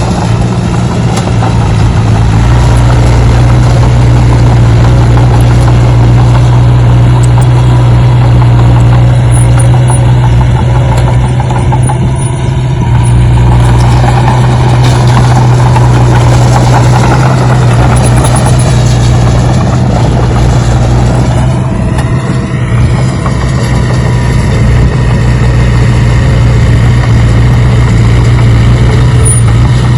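A steady engine-like running sound with a strong low drone, loud and unbroken throughout.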